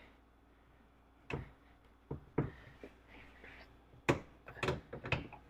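A series of irregular sharp knocks and taps, about eight, from parts being handled and set down on a wooden workbench.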